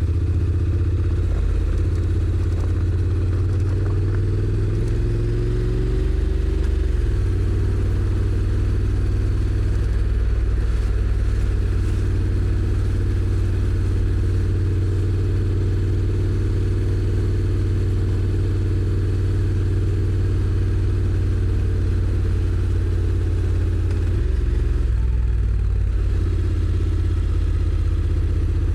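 Honda NC750X's parallel-twin engine pulling under way. Its note rises from about four seconds in and drops sharply at seven seconds as the DCT shifts up, then holds steady through a long cruise, with another step change in engine note near the end.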